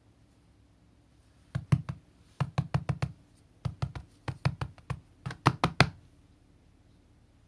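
A quick series of sharp knocks and taps in four bursts, starting about a second and a half in and stopping about six seconds in: hard plastic parts of a cordless stick vacuum being knocked against each other.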